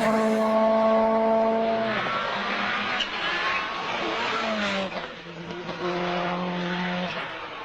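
Rally car engine running hard at high revs, holding a steady note. The pitch steps down about two seconds in and again near the middle.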